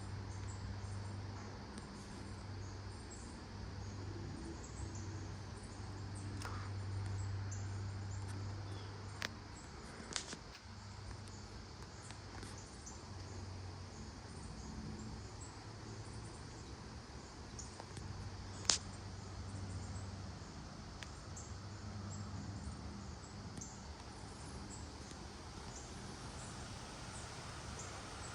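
Outdoor ambience of insects chirping in short high notes over a low steady hum, with a few sharp clicks, one louder near two-thirds of the way through.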